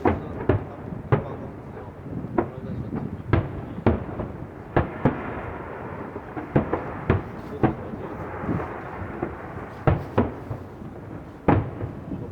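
Fireworks going off: a steady run of sharp booms and bangs at irregular intervals, some in quick pairs, over a crackling hiss that swells around the middle.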